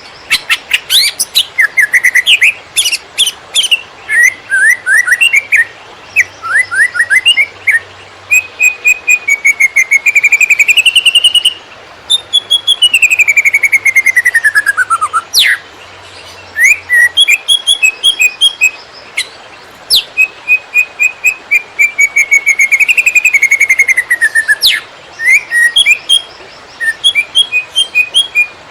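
Greater green leafbird (cucak ijo) singing a fast, jumbled 'konslet' song: rapid runs of sharp chirps and trilled phrases mixed with long slurred whistles, one sliding steadily down in pitch about halfway through.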